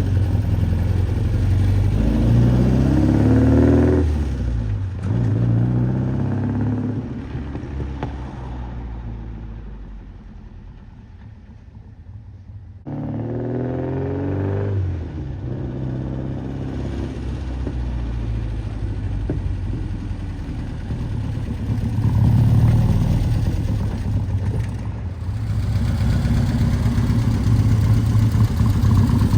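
1961 Lotus Seven S2's engine running and being revved. The revs climb twice in the first few seconds and settle to a quieter idle. About halfway through the sound jumps back up and the revs rise again, then it runs steadily with another short lift in revs.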